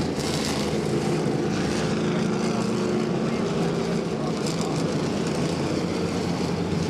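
Engines of a field of modified race cars running steadily at reduced speed under a caution, a continuous multi-engine drone.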